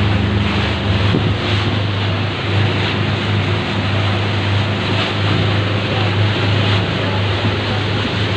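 Boat engine running steadily with a low hum, under the rush of water and wind noise on the microphone.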